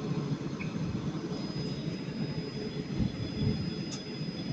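Passenger train pulling out of the station, a steady low rumble with a thin steady high tone over it; a short click about four seconds in.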